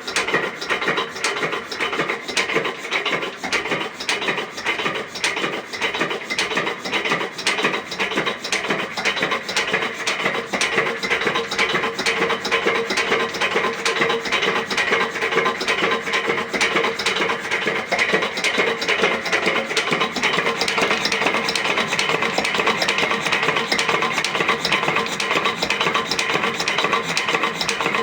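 Old 10 hp diesel engine running steadily, a fast, even clatter of knocks with a rasping edge.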